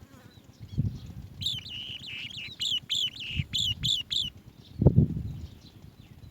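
Asian green bee-eater giving a quick run of about a dozen short, high chirps over roughly three seconds. Low thumps sound under it, the loudest one just after the chirps stop.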